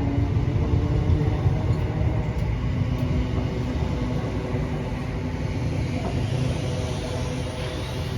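Train running, a steady low rumble under a hum of several even tones that slowly fades.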